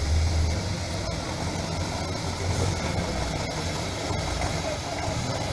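Heavy truck's diesel engine running steadily with a low rumble, a little louder in the first half second.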